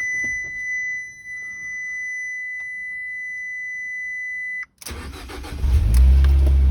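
A steady, high electronic tone sounds and cuts off about four and a half seconds in. The Fiat 500 Abarth's 1.4-litre turbocharged four-cylinder then cranks and starts from cold. It settles into a loud, steady idle through the aftermarket exhaust, with the valved muffler closed.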